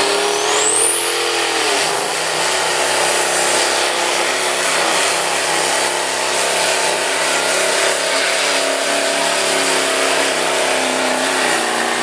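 A truck- or tractor-pull vehicle's engine running hard under load. A high whine rises over the first couple of seconds and then holds steady.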